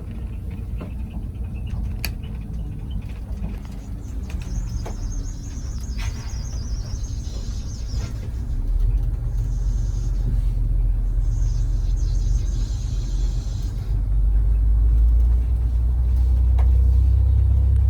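Charter coach bus running, a steady low engine and road rumble heard from inside the cabin, growing louder about eight seconds in and again near the end, with a faint hiss and a few light clicks.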